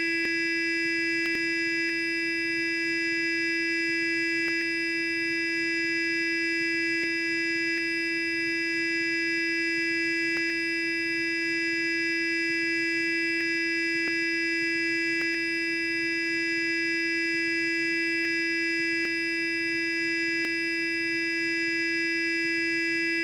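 Sonic toothbrush motor buzzing steadily at one pitch with many overtones, with faint ticks now and then.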